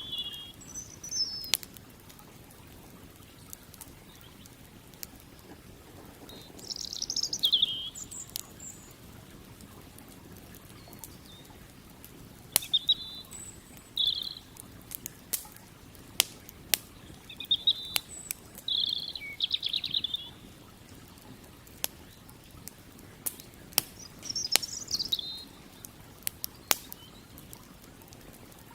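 A wood campfire crackling, with sharp single pops scattered through, while small birds chirp and trill now and then over a faint steady background hiss.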